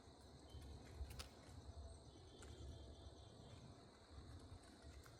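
Faint, steady chorus of crickets, with a low rumble underneath and one sharp click about a second in.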